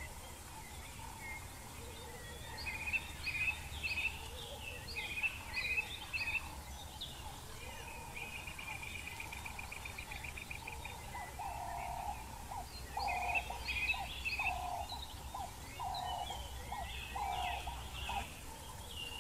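Wild birds calling and singing: bursts of high chirps, a fast trill lasting about three seconds near the middle, then a run of about six lower, evenly spaced call notes in the second half.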